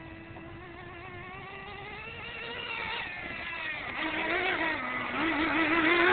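Radio-controlled monster truck running, its motor note climbing and wavering with the throttle and growing steadily louder as the truck comes closer.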